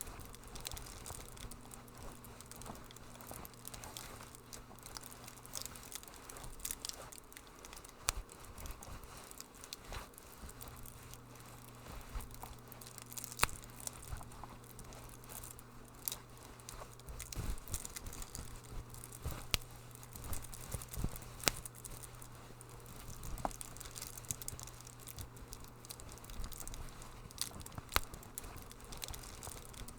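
Wood fire crackling in a fireplace: irregular snaps and pops, a few louder than the rest, over a faint steady low hum.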